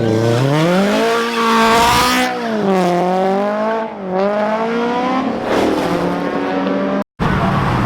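A car engine accelerating hard, its pitch climbing and then dropping several times as it shifts up through the gears. The sound cuts off abruptly near the end, and engine noise picks up again straight after.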